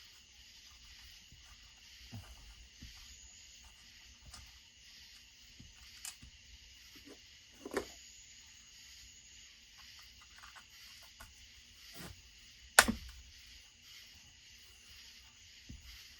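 Scattered light clicks and knocks of hand tools and parts as a chainsaw's side cover is taken off, with one sharp click about 13 seconds in. A faint steady hiss runs underneath.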